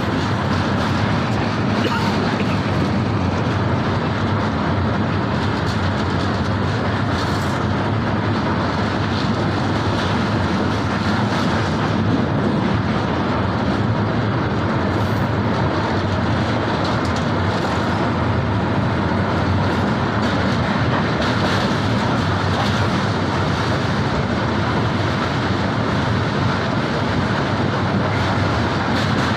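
A train running steadily on the rails, a continuous even rumble with no pauses.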